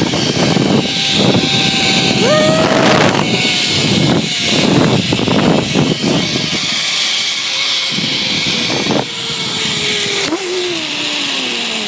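Zip line trolley pulleys running along the steel cable with a whine, under heavy wind rush on the microphone. The whine jumps up in pitch a couple of seconds in, then slides steadily down through the second half as the rider slows toward the landing.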